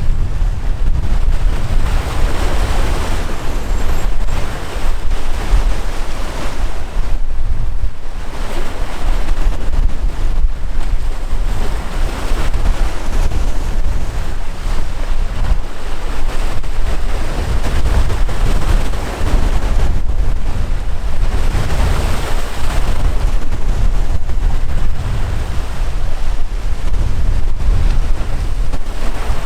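Waves rushing and breaking, swelling up and falling away every several seconds, over a strong wind that rumbles on the microphone.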